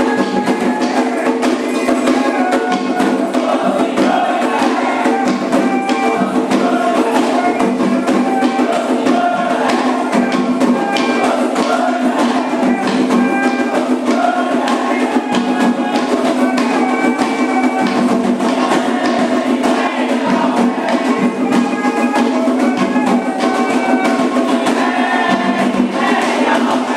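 Candomblé ritual music: atabaque hand drums playing a fast, steady rhythm while a group sings over it.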